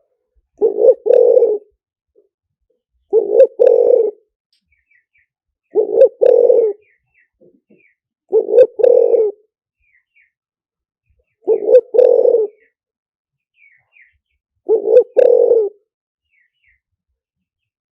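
Spotted dove cooing: a short note and then a longer two-part coo, repeated as a phrase about every three seconds, six times. Faint high chirps of small birds sound between the phrases.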